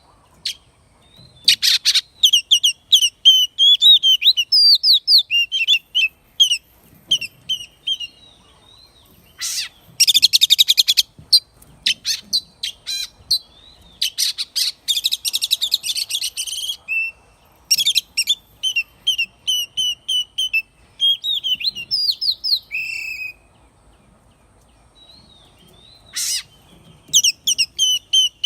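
Oriental magpie-robin singing: rapid, varied whistled phrases with quick pitch glides, broken by harsh rasping bursts, and a pause of a few seconds near the end.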